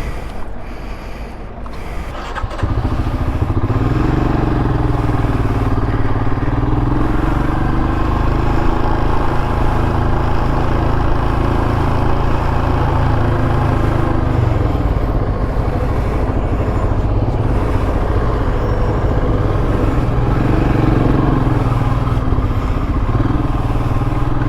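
Royal Enfield Himalayan's single-cylinder engine running steadily, coming up louder about two and a half seconds in.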